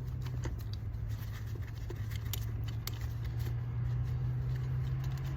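A few light clicks and taps from tools and metal starter parts being handled, over a steady low hum.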